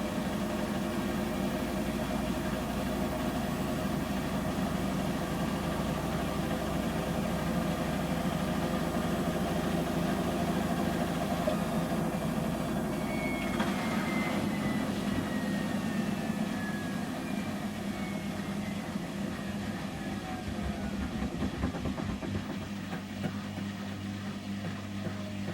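Samsung front-loading washing machine in an 800 rpm intermediate spin, a steady motor hum. About halfway through, the motor's whine falls in pitch as the drum slows down at the end of the spin.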